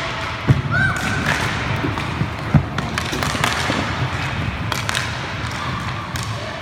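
Scattered knocks and taps of inline roller hockey play, sticks and puck clacking, with two heavier thuds about half a second and two and a half seconds in, and a brief squeak near one second.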